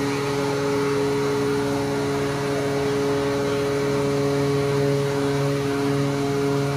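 Ship's steering gear hydraulic pump running: a steady machinery hum with several constant tones over a broad noise.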